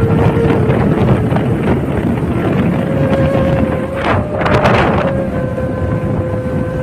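Wind buffeting the microphone over a steady humming drone, with a brief hiss about four seconds in.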